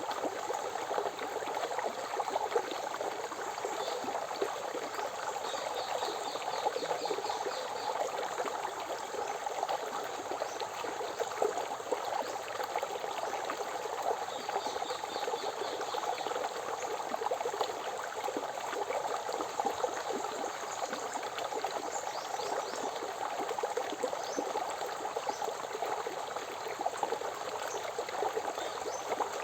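A forest river flowing steadily with a continuous rushing sound. Over it, a bird gives a faint rapid trill twice, about four seconds in and again around the middle, and there are short high chirps near the end.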